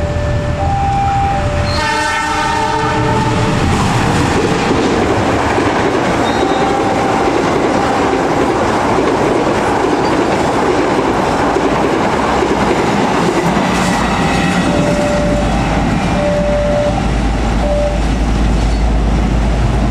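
A locomotive horn sounds for about a second and a half, about two seconds in, then a train passes over the level crossing with wheels clattering on the rail joints. The crossing's warning alarm, two tones alternating, sounds at the start and again near the end.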